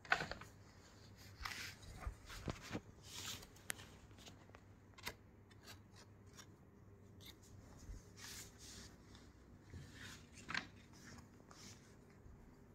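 Intermittent rustling and rubbing of cloth and packaging being handled and unfolded, with a few light clicks.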